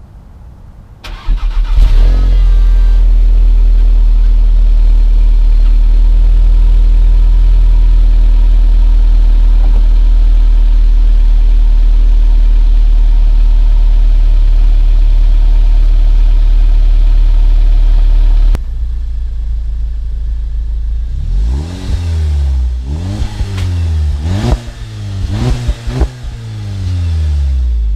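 A VW Golf Mk7 GTI's turbocharged 2.0-litre four-cylinder starts about a second in with a short rev flare, then idles steadily and loudly through its exhaust. Well past halfway the sound drops abruptly to a quieter idle, and near the end the engine is blipped four times, each rev rising and falling quickly.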